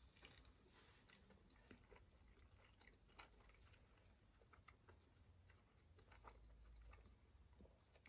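Faint mouth sounds of a person chewing a bite of thin-crust popcorn chicken pizza: small, irregular clicks and smacks.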